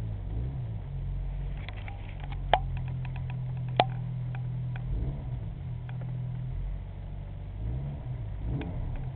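2001 Pontiac Sunfire's 2.4 L four-cylinder engine running just after a cold start from sitting for months, a steady low hum that shifts in pitch a few times. Several sharp clicks come in the second to fourth seconds, two of them louder.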